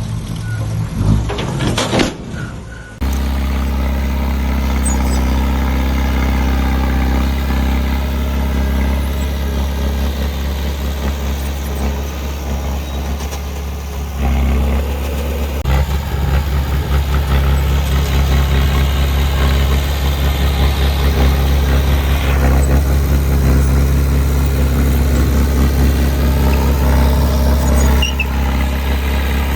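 Diesel engine of heavy earthmoving equipment running steadily with a low drone. The first few seconds sound different and more uneven, and the engine sound shifts about fourteen seconds in.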